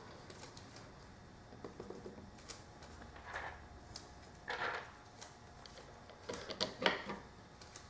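Scattered light clicks, taps and short scrapes of reclaimed screws being handled and set into the drill press table top, with no motor running.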